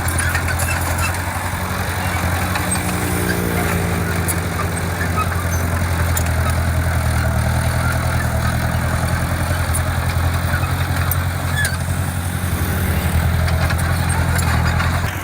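Heavy construction machine's diesel engine running steadily under load, a deep even hum with light clanks and clicks over it.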